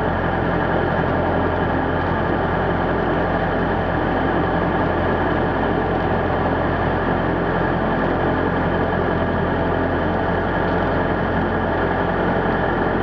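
The Cessna 172's Lycoming O-320 four-cylinder horizontally opposed engine and propeller idling steadily just after a cold start, heard from inside the closed cabin.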